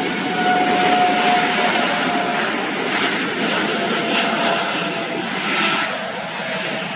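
Airliner engines running loud and steady as an aircraft moves at the airport, a broad roar with a faint steady whine in it that eases slightly near the end.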